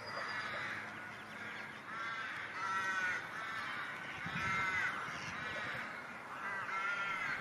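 A series of short, harsh bird calls repeated about every half second, each one arching up and down in pitch.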